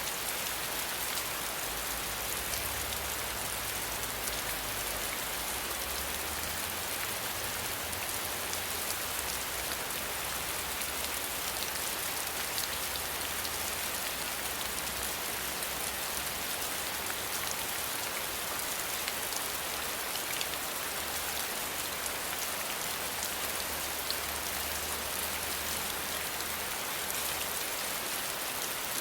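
Steady rain falling: a dense, even hiss with many fine drop ticks, and a faint low rumble that comes and goes underneath.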